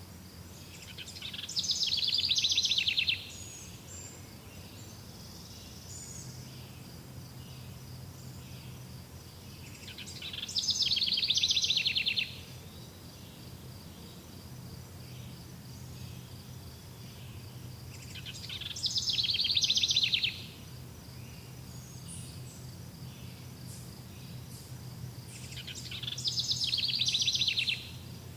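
Outdoor nature soundscape: a rapid high trill repeats four times, about eight seconds apart. Each trill swells for about two seconds and stops abruptly, over a steady faint high insect drone and a low hum.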